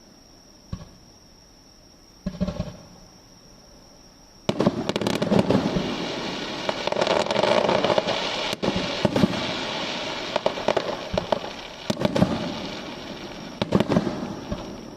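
Fireworks going off: a single bang, a short crackling burst about two seconds in, then from about four and a half seconds a dense barrage of bangs and crackles lasting some eight seconds, with a few last bangs near the end.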